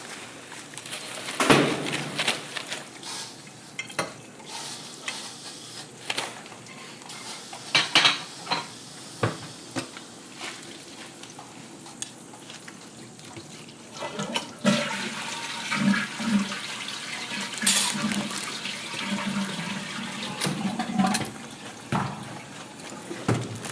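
Water rushing and gurgling through the second half, after a few sharp clicks and knocks.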